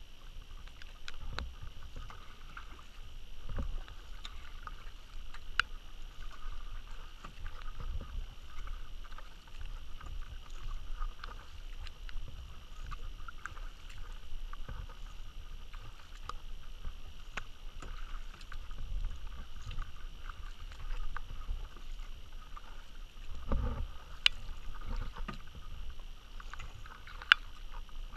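A kayak being paddled: water sloshing and dripping from the paddle, with a low rumble that swells every few seconds and occasional small clicks.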